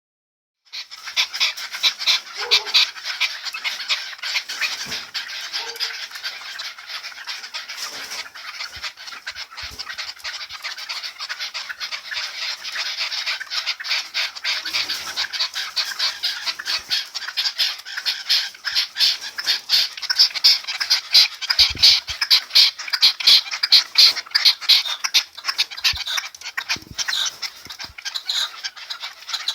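Birds chirping and calling in a dense, unbroken chatter of quick high notes, with a few soft knocks.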